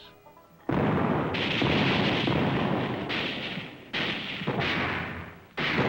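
Battlefield sound of artillery fire and explosions: after a brief quiet, a series of loud blasts with rumbling noise begins about a second in, each starting abruptly, with a fresh one near the end.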